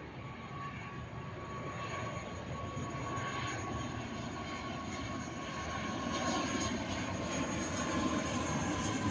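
ATR 72-600 twin-turboprop airliner's engines running, a steady drone with a high whine, growing steadily louder as the aircraft comes closer.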